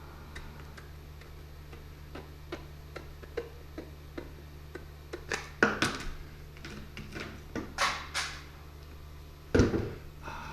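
Tin snips cutting tough plastic pet-door trim: a run of small ticking clicks, then louder crunching snips a little past the middle, and one sharp knock near the end, over a low steady hum.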